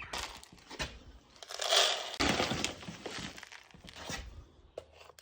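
Crinkling and crunching handling noises in several bursts, with scattered sharp clicks.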